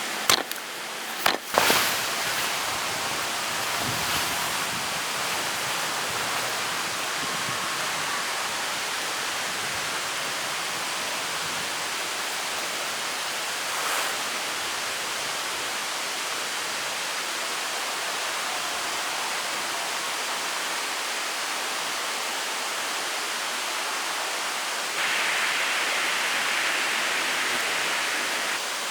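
Steady rain falling in forest, an even rushing hiss, with a few sharp knocks in the first couple of seconds and another about halfway. The hiss grows louder and brighter for a few seconds near the end.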